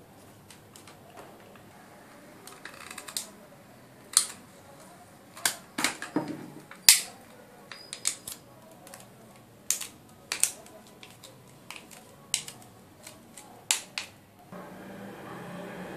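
A series of sharp, irregularly spaced clicks and taps, with a steady low hum coming in near the end.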